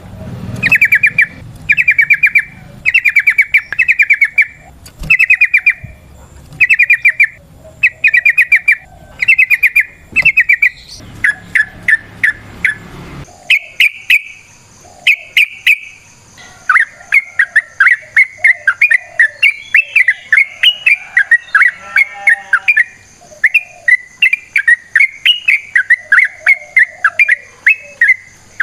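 Yellow-vented bulbul singing: short bursts of rapid bubbly notes about once a second, changing about halfway through to a long, nearly unbroken run of chattering notes.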